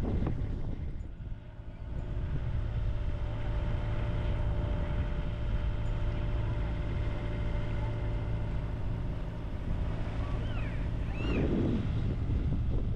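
Sailboat's engine running steadily while motoring, a constant low hum with wind on the microphone. A few short high chirps sound about ten to eleven seconds in.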